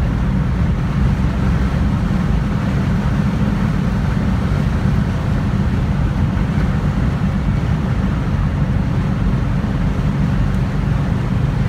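1969 Pontiac GTO's V8 running steadily at speed, with road and wind noise, heard from inside the cabin: a loud, even low rumble.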